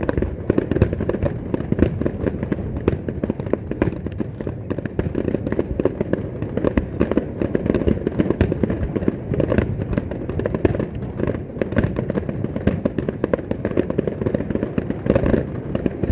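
Large fireworks display: a continuous barrage of shells and cakes going off, dense overlapping booms and crackling bangs with no let-up.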